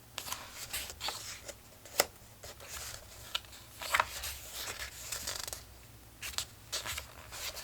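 Paper pages of a collage book being turned and handled: a run of crisp rustles and snaps, the sharpest about two seconds and four seconds in.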